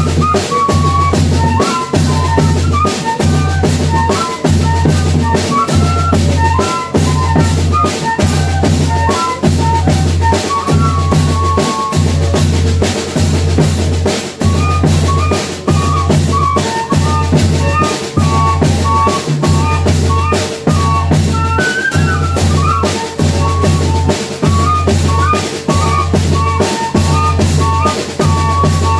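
A banda de pífano playing: fifes carrying a melody, from about midway doubled by a second line just below, over a steady beat of zabumba bass drum and snare drum.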